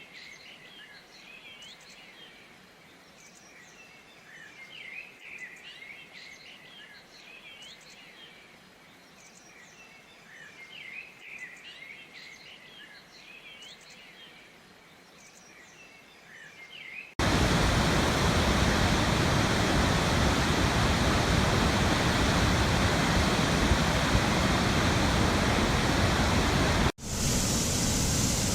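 Birds chirping over a quiet background, then, about two-thirds of the way through, a sudden change to the loud, even rush of a waterfall. The rush breaks off for an instant near the end and comes back with a brighter hiss.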